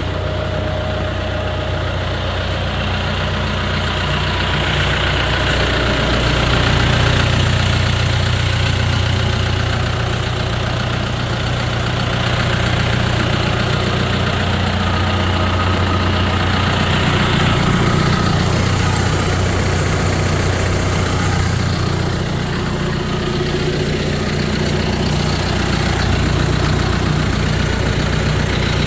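2017 John Deere 5100M tractor's four-cylinder diesel engine idling steadily.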